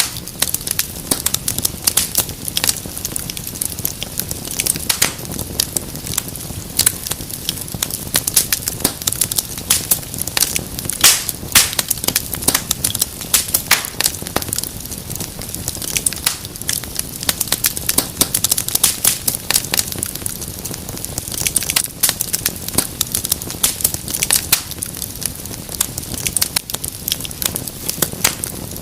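Wood fire crackling in a fireplace: dense, irregular pops and snaps over a steady low rumble of burning.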